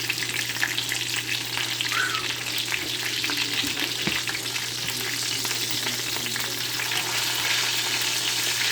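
Food sizzling steadily in a hot pan, a dense crackle of many small pops, with a steady low hum underneath.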